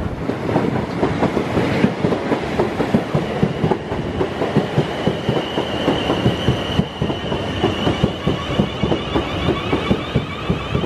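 A train running past on the rails, its wheels clattering in a rapid, dense run of clicks over the track. A steady high whine joins about halfway through.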